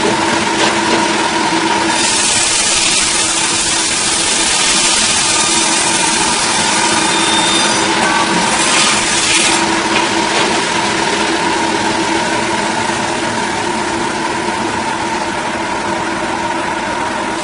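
A petrol-engined saw running steadily at high speed while cutting wood, with a hiss that grows louder about two seconds in.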